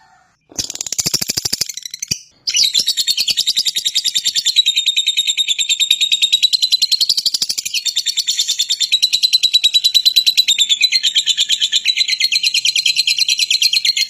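Lovebird chattering: a rapid, continuous stream of shrill chirps, with short breaks at the start and about two seconds in.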